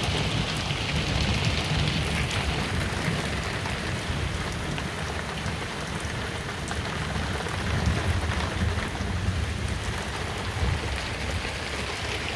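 Heavy rain falling steadily, with scattered sharp drop ticks over a low rumble.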